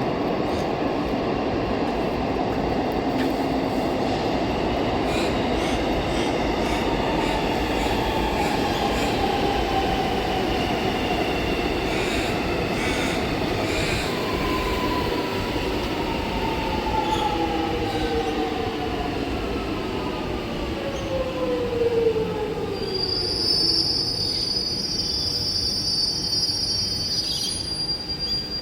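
Electric suburban train slowing into a station platform: steady running noise with a whine that falls in pitch as it slows, then a high, steady squeal for the last five seconds or so.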